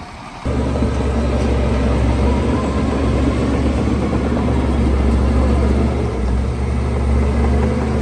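Heavy diesel engine of earthmoving machinery running steadily under a constant low drone, cutting in suddenly about half a second in.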